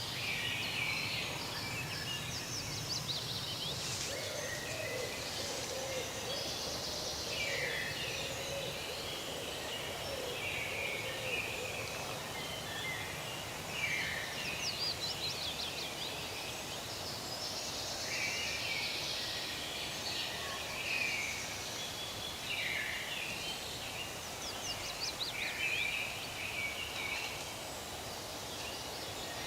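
Forest birds singing and calling over one another, with quick trills and short down-slurred notes, over a steady soft hiss.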